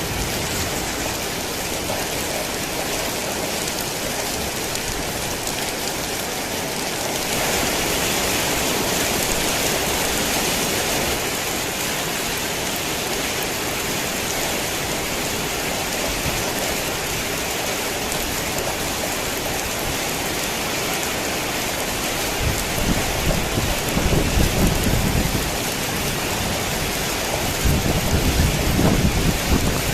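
Heavy rain pouring steadily, with a brief heavier spell about a quarter of the way in. Low rolls of thunder rumble twice in the last third.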